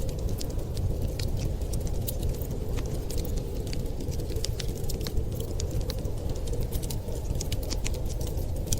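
Wood fire crackling in a fireplace, with many irregular sharp pops and snaps over a steady low rush of winter storm wind.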